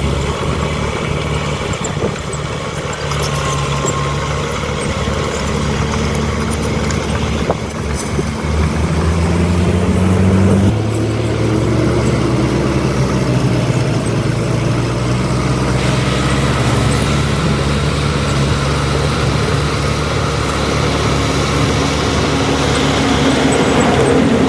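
Diesel engine of heavy earthmoving machinery (dump truck or bulldozer) running under load. It revs up about eight seconds in, changes pitch sharply near the eleventh second, and then runs on steadily, a little louder.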